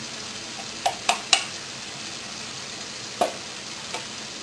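Tomato and onion sofrito sizzling steadily in a frying pan, with three quick sharp taps about a second in and another a little after three seconds.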